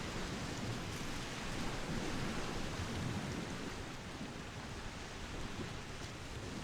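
Steady rushing noise of a ferry under way, wind and water over a low, unsteady rumble.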